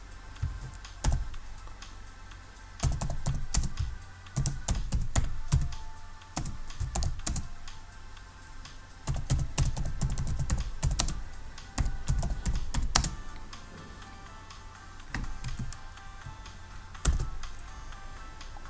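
Typing on a computer keyboard in several bursts of rapid key clicks with pauses between, over quiet background music.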